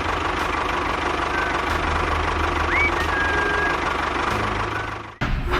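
Engine running steadily at a knocking idle, cut off abruptly about five seconds in by a different, more broken sound.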